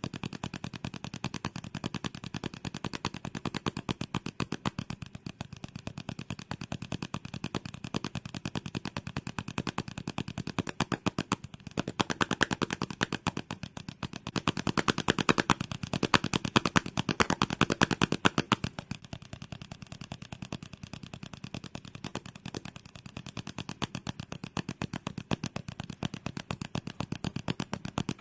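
Fast ASMR trigger sounds made close to the microphone: a rapid, continuous run of sharp clicks, growing louder for several seconds in the middle and then easing back.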